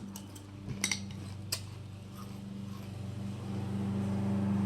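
A spoon clinking against a cereal bowl, twice clearly about a second in, with a lawnmower engine droning steadily in the background and growing louder near the end.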